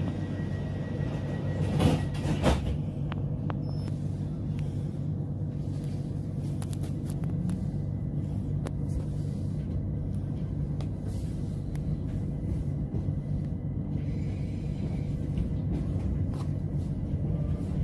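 Interior of a c2c electric passenger train: a steady low running rumble and hum, with two short clunks about two seconds in.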